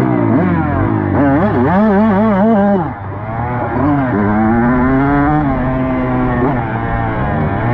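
Dirt bike engine running hard while riding, its pitch climbing and falling with the throttle: it warbles up and down for about a second, drops sharply about three seconds in, then climbs again and holds a fairly steady note.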